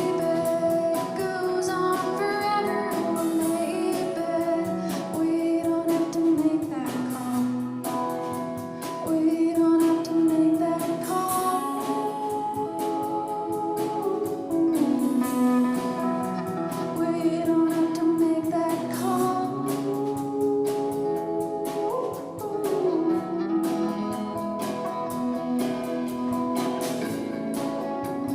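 Live band performing a song: held, sliding sung notes in several voices over strummed guitar.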